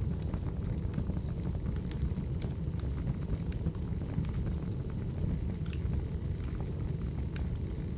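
Wood fire burning: a steady low roar with scattered crackles and small pops.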